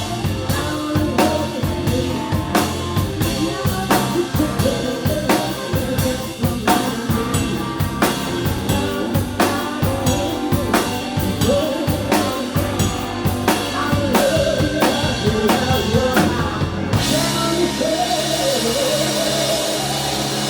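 Live blues-rock band playing, with a pounding drum kit, bass and a woman's singing voice. About three quarters of the way through the drums stop hitting in a beat and give way to a sustained cymbal wash over a held bass note.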